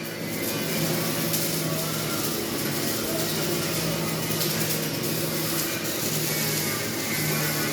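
Electric arc welding: a steady crackling hiss over a low buzzing hum that drops out briefly a few times.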